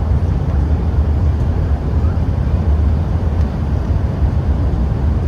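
Steady, deep rumble of an Airbus A380's engines and rushing air, heard from inside the passenger cabin during landing.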